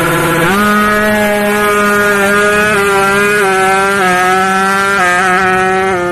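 Kawasaki Ninja 150's two-stroke single-cylinder engine held at high revs, stepping up in pitch about half a second in, then dipping briefly several times with short blips of the throttle.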